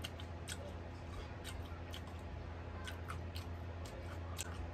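A person chewing a mouthful of beef burger with lettuce and onion: soft, irregular clicks and crunches, over a low steady hum.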